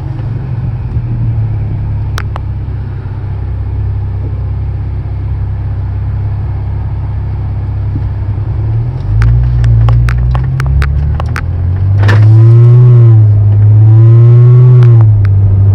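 Muffler-deleted 2015 BMW 535i's turbocharged inline-six heard from inside the cabin with the windows closed: a steady low exhaust drone, then about three swells where the revs rise and fall, the last two the loudest. The exhaust still comes across as fairly quiet through the closed cabin.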